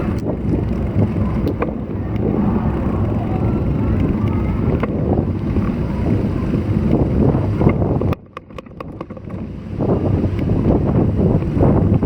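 Strong wind buffeting an action camera's microphone while riding a road bike, a loud rumbling rush. It drops away suddenly for about two seconds past the middle, then comes back.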